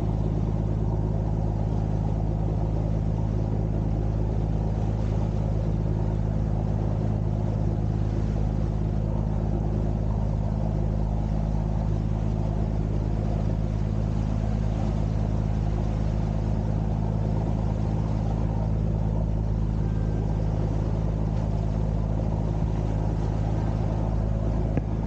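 Boat engine running at a steady speed, an even low drone with no change in pitch.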